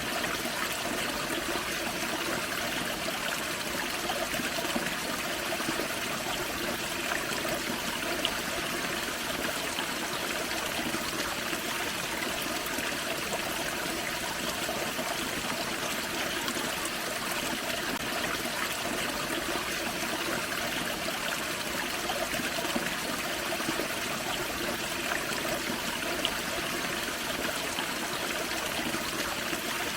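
Small forest waterfall and creek running steadily, water splashing and trickling over rocks.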